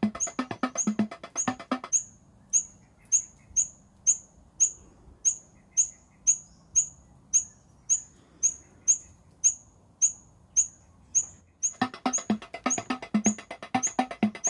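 Rufous fantail giving short, high chirps in an even series, about two a second. Background music plays under them for the first two seconds, drops out, and comes back near the end.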